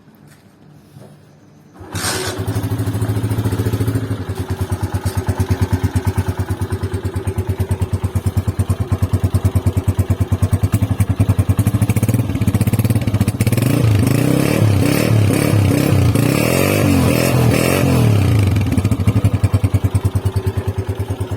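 Honda CG 125 (2020 model) single-cylinder four-stroke motorcycle engine starting about two seconds in and idling with a steady pulse. The throttle is blipped several times in the second half before the engine settles back to idle.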